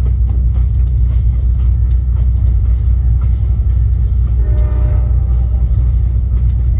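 Steady low rumble of a moving passenger train riding along the rails, with scattered clicks and knocks. A held pitched tone sounds briefly a little past the middle.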